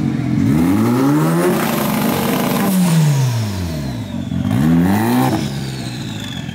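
High-performance car engine revved hard several times. The revs climb, fall away about three seconds in, and climb sharply again near five seconds.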